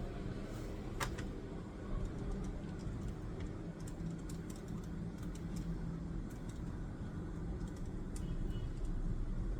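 Light clicks and taps of someone working at a desk, a sharper click about a second in and scattered faint ticks later, over a steady low rumble like distant traffic.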